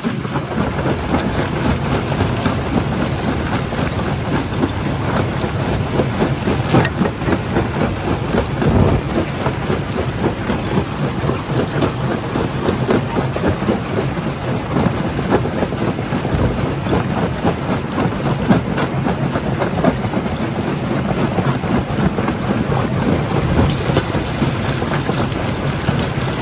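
Rock crusher working through stone: a continuous low rumble with a dense, unbroken clatter of rock knocking and breaking.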